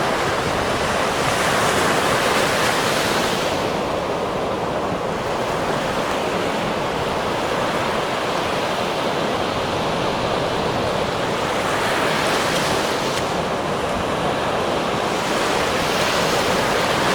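Ocean surf: a continuous wash of waves, with a wave breaking near the start and more breaking again near the end.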